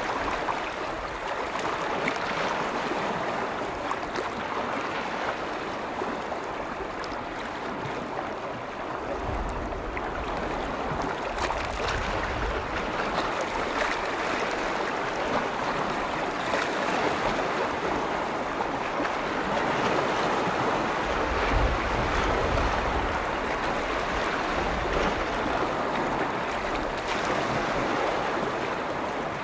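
Waves on a large lake washing in steadily, a continuous wash of water. Low rumbles of wind on the microphone come in about nine seconds in and again a little past twenty seconds.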